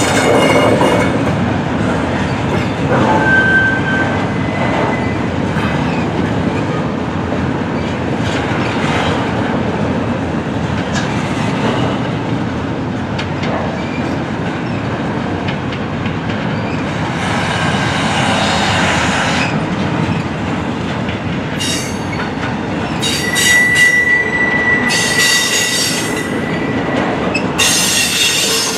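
Intermodal freight train cars, double-stack container cars and trailer flatcars, rolling past with a steady rumble and wheel clatter. High-pitched steel wheel squeals ring out now and then, with bursts of screeching in the second half.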